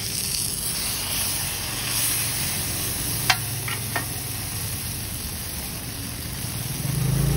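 Stuffed kulchas sizzling as they fry on a flat steel griddle, a steady hiss, with two or three sharp clicks of the metal spatula against the griddle a little past the middle.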